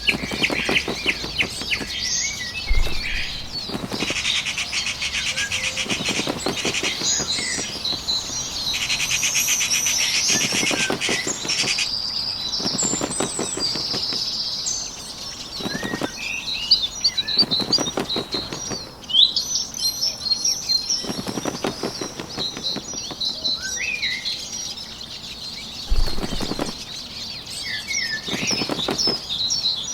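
Bird wings flapping in repeated fluttering bursts of a second or two, every few seconds, over the continual chirping and twittering of small birds.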